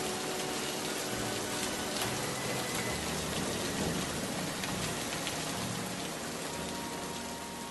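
Rain falling steadily, an even hiss that eases off slightly near the end.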